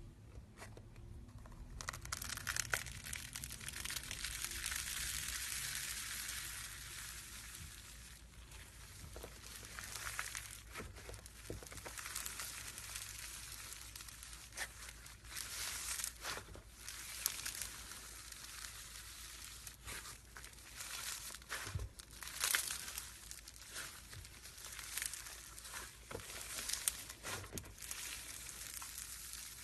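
Slime being squished and worked, making a dense run of sticky crackles and small pops that starts about two seconds in, then thins to scattered clicks.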